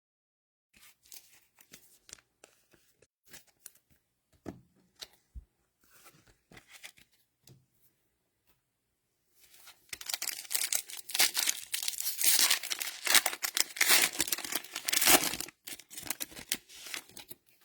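Soft handling clicks at first, then from about ten seconds in a loud, dense crinkling and tearing of a cellophane card-pack wrapper being ripped open.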